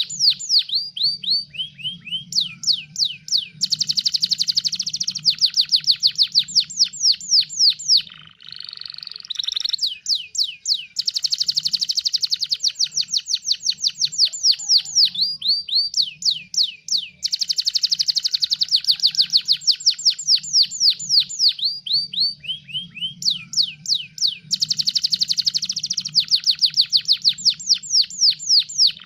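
Domestic canary singing a long, fast song made of rapid trills of quickly repeated high notes, phrase after phrase, with brief breaks about 8 and 17 seconds in.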